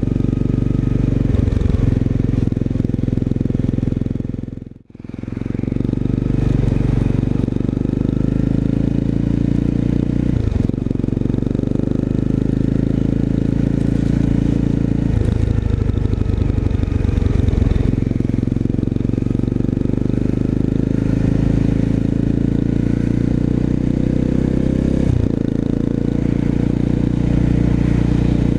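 Single-cylinder 250 cc motorcycle with an aftermarket exhaust, running under way: a steady exhaust note with several brief breaks and changes in pitch as gears are shifted. The sound drops out briefly about five seconds in.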